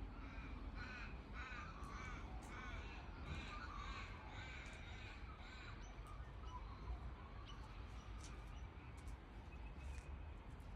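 A bird calling in a series of about eight to ten repeated notes, roughly two a second, over the first five seconds, then a few fainter calls, over a low steady hum.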